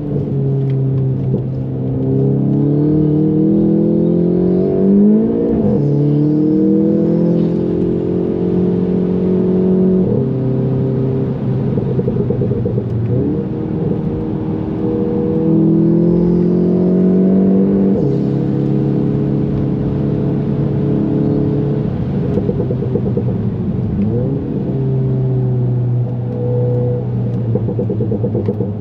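VW Golf 7 GTI's tuned turbocharged 2.0-litre four-cylinder heard from inside the cabin, under hard driving. The note climbs with the revs and drops in abrupt steps at gear changes, several times over.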